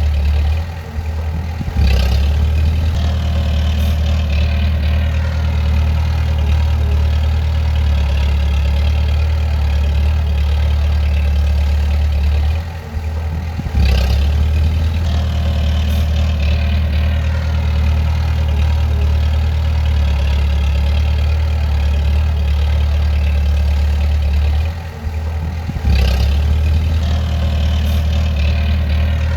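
Bulldozer's diesel engine running steadily with a low, even drone. It dips briefly three times, and each time it comes back with a sharp clank.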